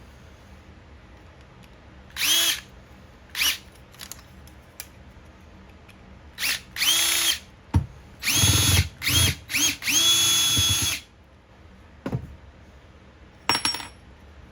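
Power drill run in about eight short bursts, each spinning up in pitch, the longest about a second, while a fog light is taken apart for scrap. A couple of sharp clicks fall between the bursts.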